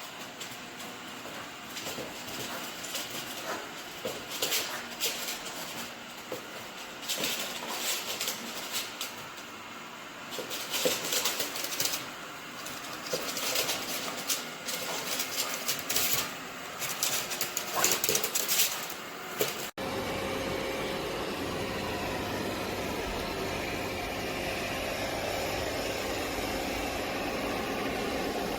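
Robot vacuum cleaner running: irregular clattering and brushing noises for most of the first twenty seconds, then, after a sudden cut, a steady whirring motor hum.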